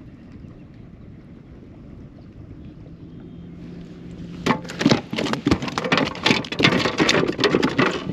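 Gear being handled on a fishing kayak: a faint steady hum, then from about halfway in a burst of rapid, loud clattering and knocking close to the microphone.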